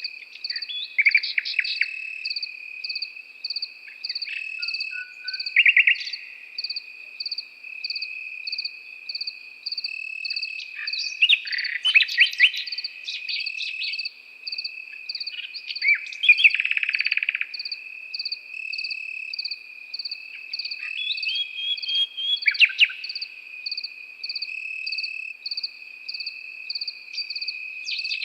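Nightingale singing in separate short phrases of rapid repeated notes and whistles over a chorus of crickets: one trills without a break, another chirps in an even pulse of about two chirps a second.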